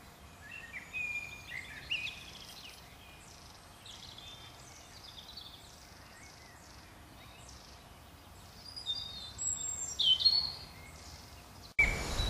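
Songbirds singing: many short chirps and whistled notes over a faint steady hiss, a little louder towards the end. Near the end the sound cuts abruptly to a louder outdoor background.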